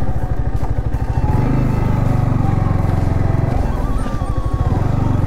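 Sport motorcycle engine idling with the bike at a standstill: a fast, even low thrum.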